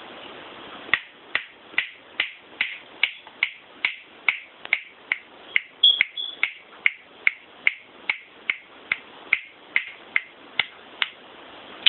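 Pet bird making a steady run of sharp clicks, about two to three a second, with one brief high squeak about six seconds in.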